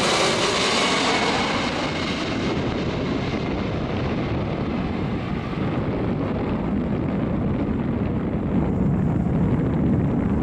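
Twin jet engines of a UPS Boeing 767-300ERF freighter on landing approach, heard just after it passes: the whine fades away over the first couple of seconds, leaving a steady low rumble.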